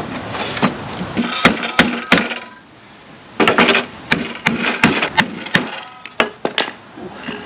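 Hammer blows on the crushed sheet-metal cargo door panel, beating it out straight: a few sharp metallic strikes, a short pause about halfway, then a quicker run of strikes and a few more near the end.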